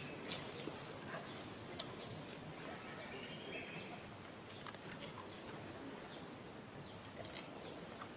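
Outdoor ambience with birds calling: short, high falling chirps repeated every second or so, with a few sharp ticks among them.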